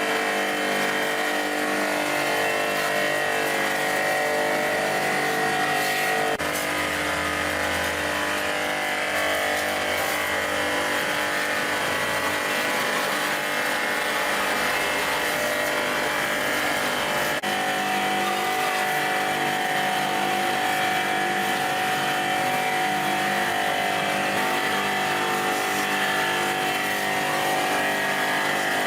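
A machine running steadily, with a constant hum of several tones. The hum changes abruptly about six seconds in and again around seventeen seconds, with a deeper low hum in between.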